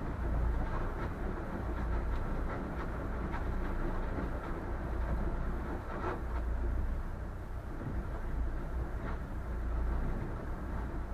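Boat pushing through ice: a steady low rumble with grinding and scattered sharp cracks of ice against the hull, one of the clearest about halfway through.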